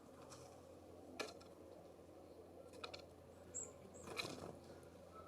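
Small birds at a feeder: faint taps and scuffles of pecking and hopping, a sharp tap about a second in, and one brief high chirp after about three and a half seconds, over a low steady hum.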